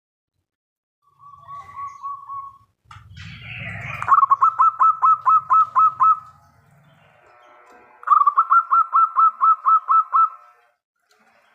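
Zebra dove (perkutut) cooing. A short low trill comes first, then two runs of quick repeated notes, about four to five a second, each lasting about two seconds. A brief rustling noise comes just before the first run.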